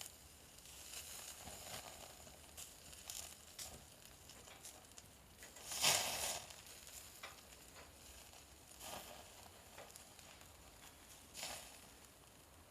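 Wood fire burning in a Kamado Smart Grill B5 stove: a faint steady hiss with scattered crackles and a few louder half-second hisses, the loudest about halfway through.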